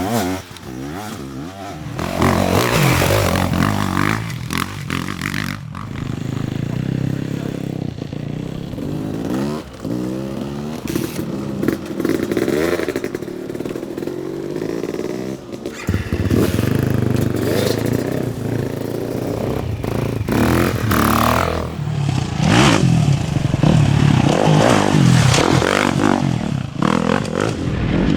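Enduro dirt bike engines racing off-road, revving hard and rising and falling in pitch through repeated gear changes as bikes pass.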